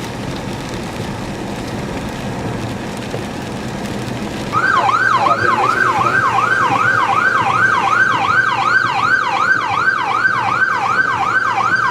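Steady road and engine noise from a moving vehicle, then about four and a half seconds in an emergency vehicle's siren starts suddenly and loudly in a fast yelp, sweeping up and down about three times a second.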